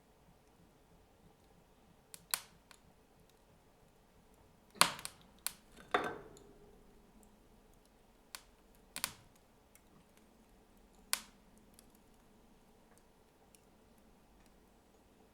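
Wood fire burning in a fireplace, with sparse, irregular sharp pops and cracks from the burning logs, about nine in all. The loudest cracks come about five and six seconds in.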